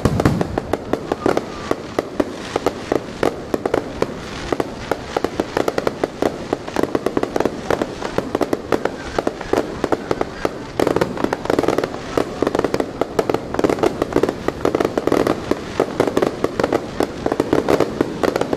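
Fireworks display: a dense, continuous run of sharp crackling pops, many per second, thickening from about eleven seconds in.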